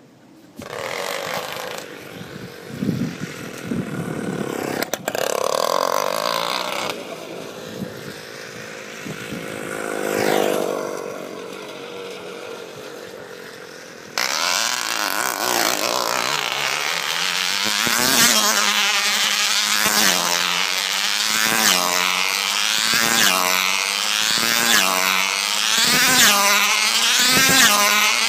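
Class 10A tether car's small two-stroke glow engine running. It runs unevenly at first, then about halfway through jumps to a loud, high-pitched full-speed scream. At full speed the pitch rises and falls in a regular cycle about once a second as the car circles the tether pole.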